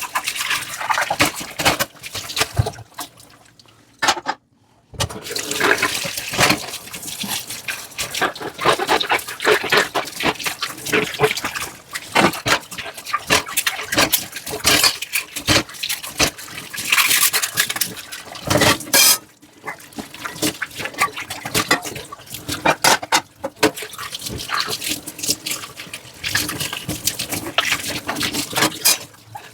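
Dishes being washed by hand in a sink: splashing water, scrubbing and frequent clinks and knocks of dishware, with a brief pause about four seconds in.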